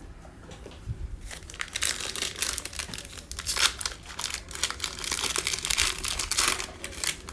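Crinkly wrapper of a 2020 Mosaic football card pack being torn open and handled, with dense crackling rustles lasting about six seconds.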